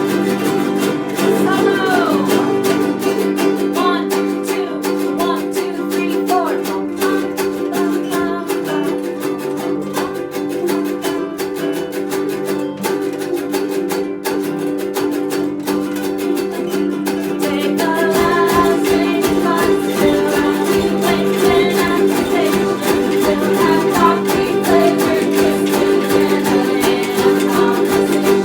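Ukulele music, chords strummed in a steady rhythm. The playing grows louder and busier about eighteen seconds in.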